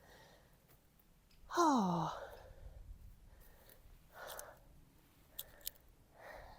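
A long voiced sigh falling in pitch about a second and a half in, followed by two softer breaths.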